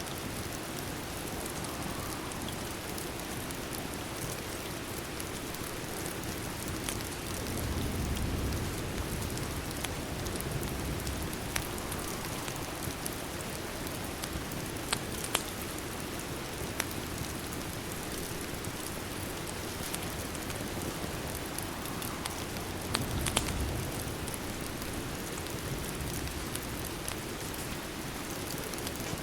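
Steady rain, with a fireplace crackling in scattered sharp pops. A low rumble swells up twice, about eight seconds in and again near twenty-three seconds.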